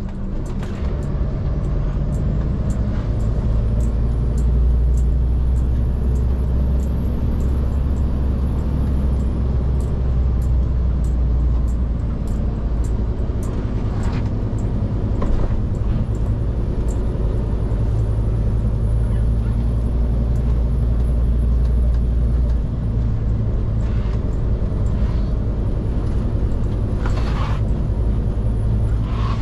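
Scania P360 skip truck's diesel engine running steadily under way, its note shifting a couple of times as the load or gear changes.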